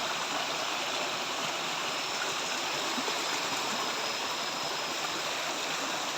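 Steady, even rush of flowing river water, with a faint high steady tone running through it.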